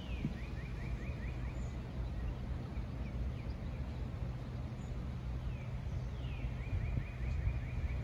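A songbird sings the same short phrase twice, about six seconds apart: a downward-slurred note followed by a quick run of about six short notes. A steady low rumble lies underneath.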